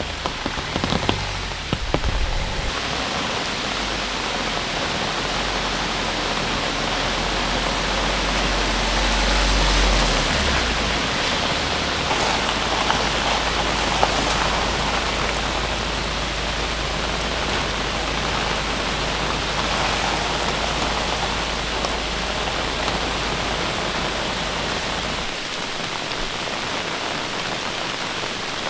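Steady rain falling, an even hiss with a few sharper drop ticks, over a low steady rumble that stops about 25 seconds in.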